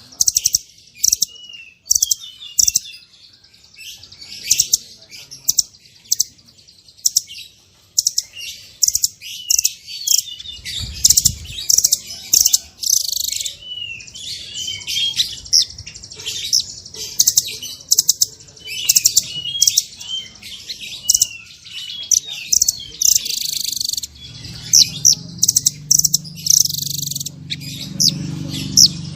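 Small songbirds singing a dense, fast stream of high-pitched chirps, trills and sharp whip-like notes with no pause. A low rumble sits underneath in the last few seconds.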